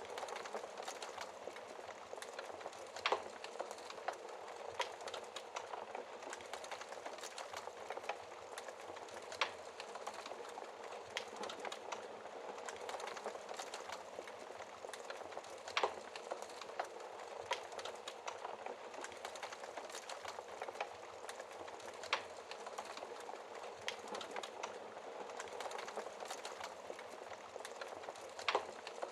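Fireplace fire crackling, with continuous small crackles over a soft hiss of flame. A few sharper, louder pops come every several seconds.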